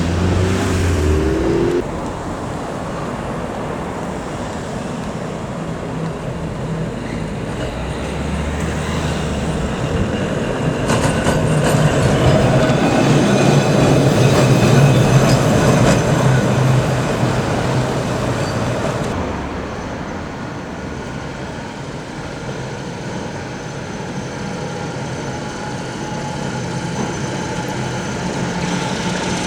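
Heritage electric tram running on its rails, with a steady motor hum and wheel noise that swells to a peak about halfway through and then fades.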